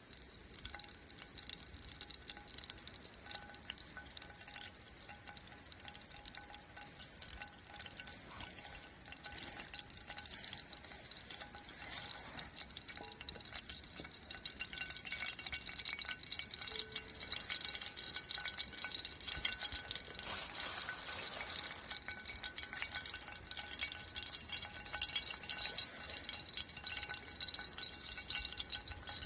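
Fish frying in a pan over a campfire: a steady sizzle full of fine crackling, getting louder about halfway through.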